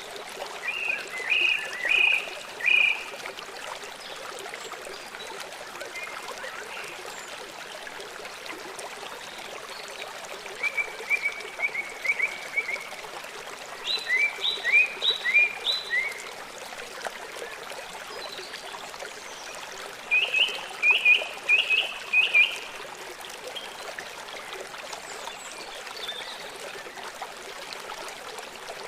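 Small songbirds chirping in short bursts of quick repeated notes, four bouts in all, over a steady trickling stream.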